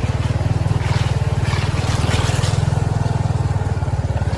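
A motor vehicle's engine running steadily under way, with a fast, even pulsing; a short rush of hiss rises over it about a second in.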